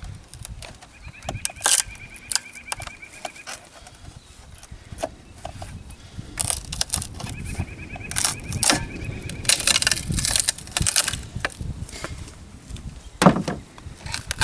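Knocks, clicks and scraping of a wooden lid being pried off a package of bees.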